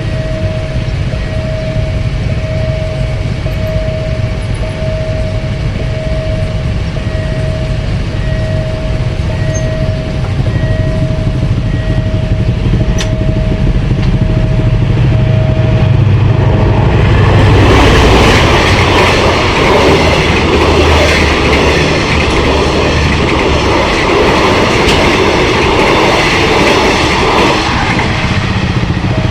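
Level-crossing warning alarm beeping in a steady pulse, about once a second, over a growing low rumble as a train approaches. From about halfway through, the train passes the crossing: loud running noise of wheels and cars on the rails drowns the alarm, which is heard again near the end.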